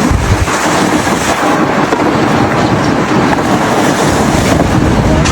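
Strong wind rushing and buffeting the microphone in a blizzard, a loud, steady, rumbling roar.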